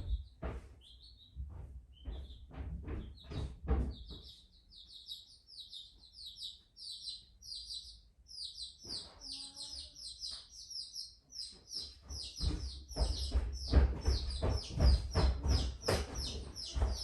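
A bird chirping in quick repeated series of short high notes, over scattered knocks and thumps, the thumps loudest near the end.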